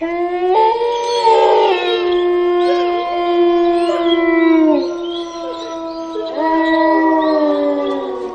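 Several dogs howling together: long, overlapping held howls at different pitches, each sliding down as it ends. The chorus starts abruptly and swells again about six seconds in.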